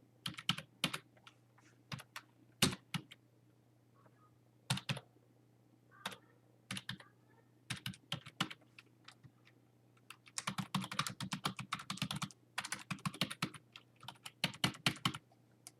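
Typing on a computer keyboard: scattered keystrokes, then two runs of fast typing about ten seconds in. A faint steady hum runs underneath.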